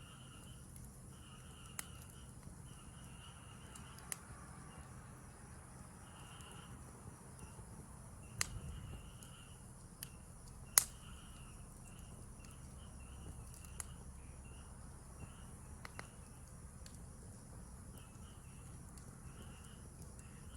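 Insects chirping in short, repeated trills, with scattered sharp crackles and pops from a wood campfire, the loudest about eleven seconds in.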